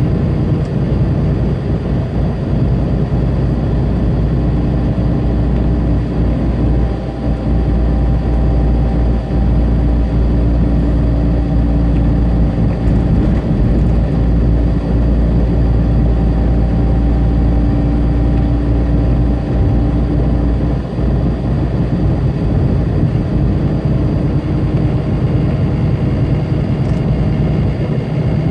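Tractor-trailer's diesel engine running steadily with road noise while driving at highway speed: a continuous low drone with a few steady engine tones over it, dipping briefly about a quarter of the way in and again about two-thirds of the way in.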